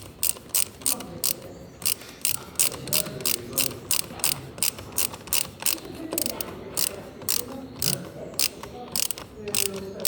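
Hand ratchet wrench clicking in an even rhythm, about three sharp clicks a second, as it turns a bolt.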